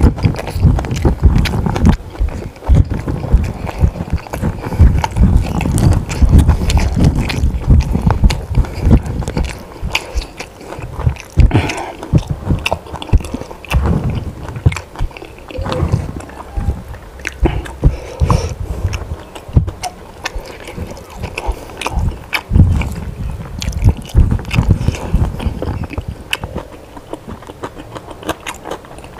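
A person chewing and biting food close to the microphone, with wet, uneven chewing and many short, sharp crunchy clicks. It is heaviest over the first third and thins out later.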